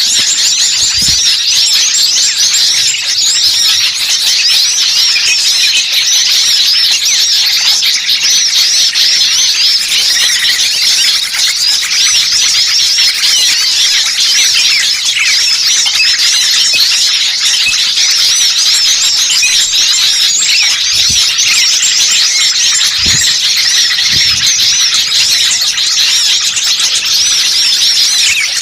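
Dense, loud chorus of many small songbirds chirping and twittering over one another without a break: a mixed small-bird lure recording.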